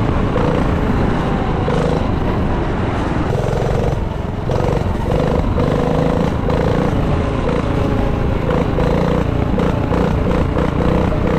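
Small single-cylinder minibike engine running at fairly steady revs, with a brief drop in level about four seconds in.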